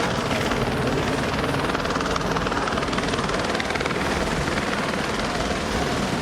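Police helicopter rotor and engine noise, a steady, rapid chop heard from on board the helicopter.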